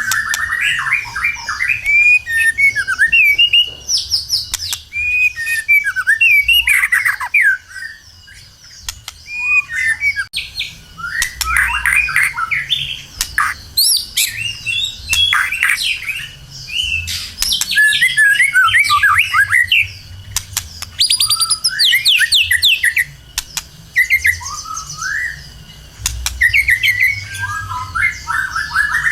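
White-rumped shama (murai batu) singing at full pitch: rapid, varied whistled phrases that sweep up and down, separated by short pauses.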